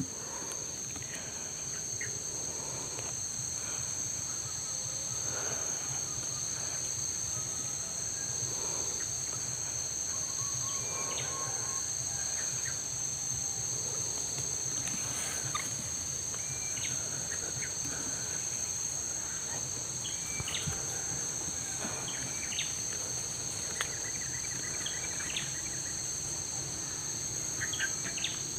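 Steady high-pitched insect chorus, with scattered short bird chirps and calls over it.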